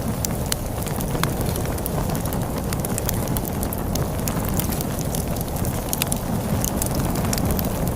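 Log fire crackling, with frequent sharp pops and snaps over a steady low rumble of storm wind.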